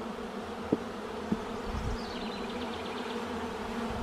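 Steady buzzing hum of a crowded honeybee colony around an opened hive. Two light knocks come a little under a second in and again near a second and a half.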